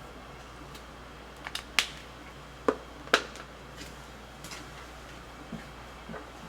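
A handful of sharp, separate clicks and taps at uneven intervals, three of them louder than the rest, over a quiet steady background.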